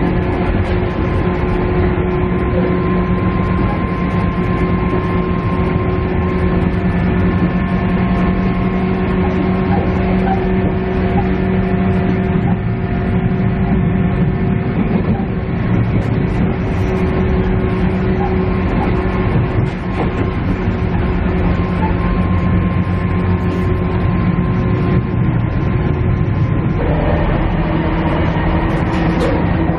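JR East KiHa E130 diesel railcar running, heard from inside the passenger cabin: a steady diesel engine drone over wheel and rail rumble. The engine note changes near the end.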